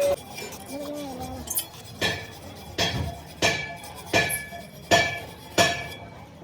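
Steady hammer blows on a metal wheel rim, about seven strikes roughly 0.7 s apart starting about two seconds in, each giving a short metallic ring.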